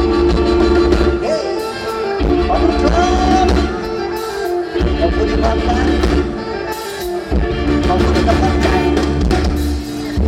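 Live Isan band music with drum kit, a deep bass line and a melody over it. The bass drops out briefly a few times.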